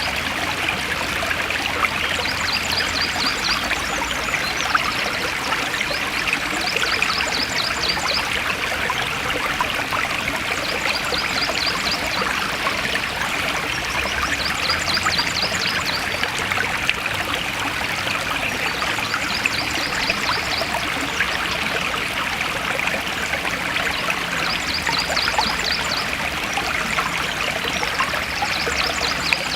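Forest stream flowing and splashing steadily, with short high, rapid trills repeating about every four seconds above the water.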